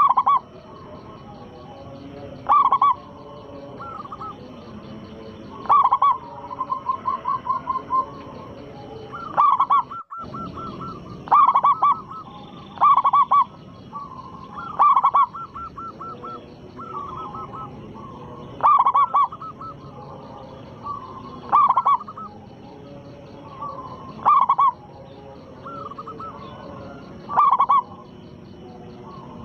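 Zebra dove (perkutut) cooing: loud song phrases repeating about every three seconds, some with a quick run of short notes.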